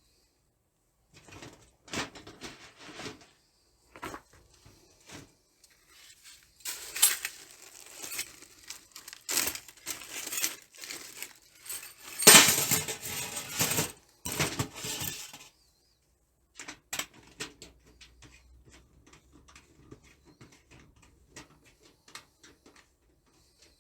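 Thin titanium camp-stove parts being handled and unpacked: irregular light metallic clattering and rustling, loudest a little past the middle, then trailing off to faint ticks.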